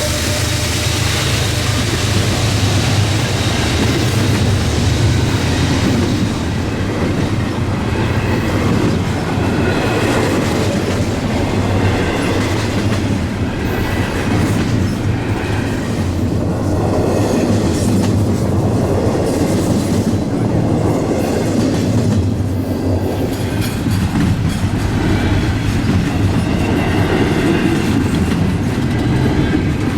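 Freight train cars of a long intermodal train rolling past steadily, with a continuous clatter of wheels over the rails and faint high-pitched wheel squeal coming and going.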